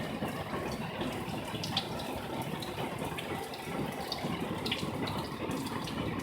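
Heavy rain pouring down in a steady rush of water, with a few sharper ticks of drops striking nearby.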